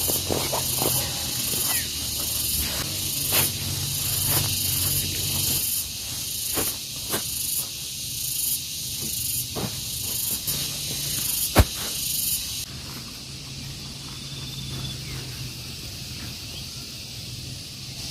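Rain falling on a tent: a steady hiss with scattered sharp taps of drops. The hiss drops off suddenly about two-thirds of the way through, leaving quieter, sparser taps.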